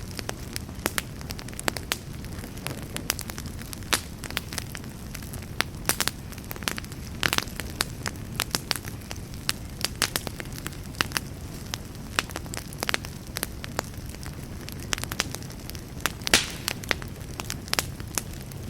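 Campfire burning: a steady low rumble of flames with many irregular sharp crackles and pops, one louder pop near the end.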